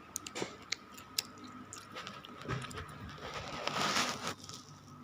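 A person eating an omelette, with chewing and several sharp mouth clicks early on. A brief hissing noise comes about three and a half seconds in.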